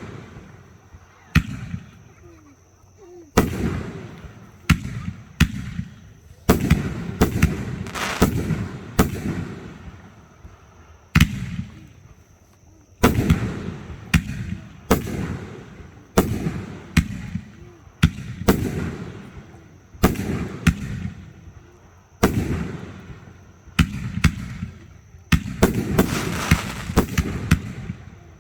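Fireworks shells bursting one after another, sharp bangs each with a fading crackle, coming thick and overlapping near the end.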